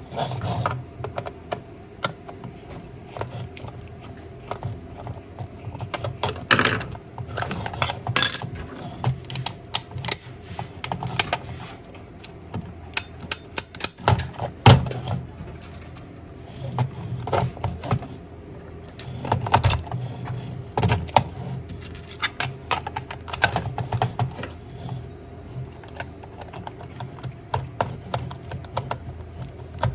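Small hard plastic parts of a toy car clicking and tapping irregularly as they are handled and taken apart, some clicks in quick runs, over a low steady hum.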